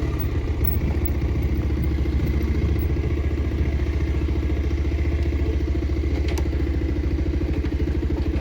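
Motorcycle engine idling steadily, with an even, fast pulse and no revving.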